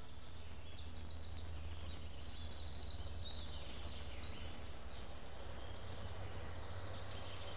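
Small birds chirping in several short, rapid trills of high notes over a steady low hum. The trills fall silent about five seconds in.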